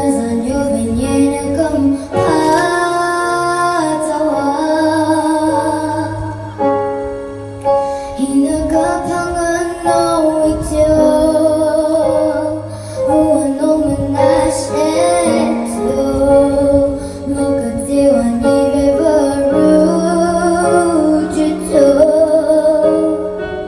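A woman singing a song with long held notes and vibrato, over instrumental accompaniment.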